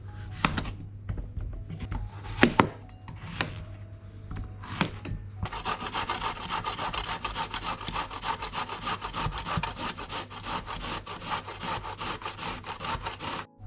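Zucchini being grated by hand on a grater: a few separate knocks, then from about five seconds in, fast, even scraping strokes that stop abruptly near the end.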